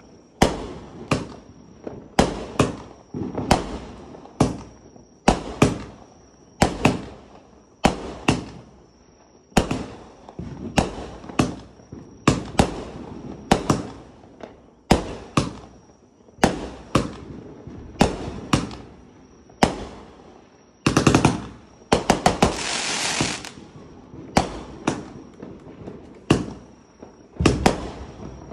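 Consumer fireworks cake firing shot after shot, a sharp bang roughly every second. About three-quarters of the way through comes a denser stretch of crackling and hiss lasting a couple of seconds.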